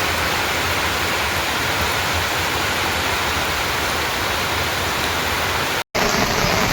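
Heavy rain falling in a steady, dense hiss. It cuts out for an instant near the end and resumes at once.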